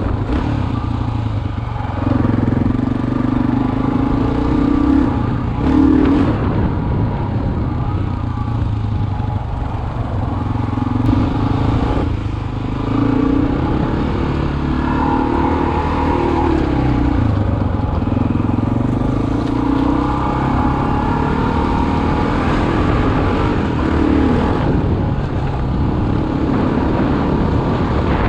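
Single-cylinder four-stroke dual-sport motorcycle engine running under way, its pitch and loudness rising and falling repeatedly as the throttle opens and closes.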